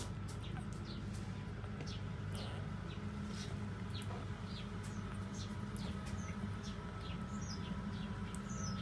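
Small birds chirping: short, high, downward-sliding chirps, several a second, over a steady low hum.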